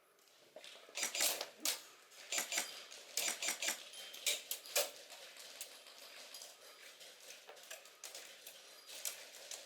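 Quick footsteps with gear rattling: clusters of sharp scuffs and clicks for the first few seconds, then fewer and quieter.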